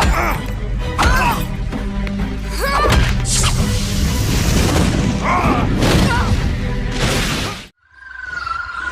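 Black Canary's 'Canary Cry' sonic scream as a TV sound effect, a loud wavering shriek with shattering and heavy impacts, mixed over dramatic music. It cuts off abruptly near the end and a steady wavering tone follows.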